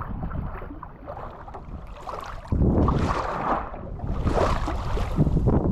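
Wind buffeting the microphone aboard a small boat on open water, with a hiss of water; a stronger gust comes in about halfway through.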